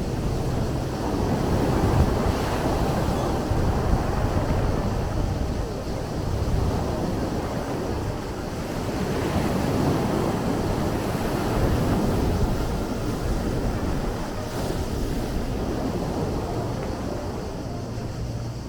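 Sea waves washing in and drawing back, the surge rising and falling every few seconds, with wind buffeting the microphone as a low rumble underneath.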